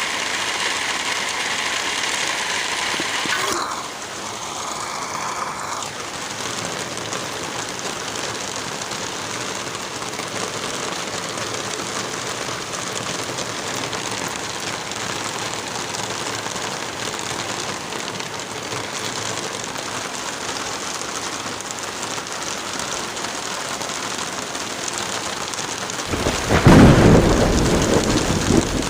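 Steady rain, which shifts and becomes a little quieter about four seconds in. Near the end comes a loud, low rumble of thunder lasting about two seconds.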